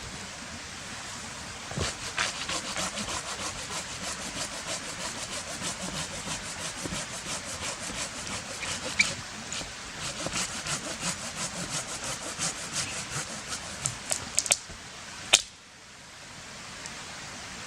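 Hand saw cutting into wet, rotten wood in quick, even strokes, about two to three a second; the wood is waterlogged. Near the end the sawing stops and one sharp crack follows.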